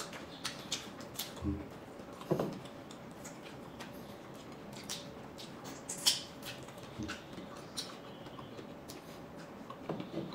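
Close-miked eating sounds: chewing with scattered wet lip smacks and mouth clicks while eating stir-fried noodles and seafood by hand. The sharpest smack comes about six seconds in.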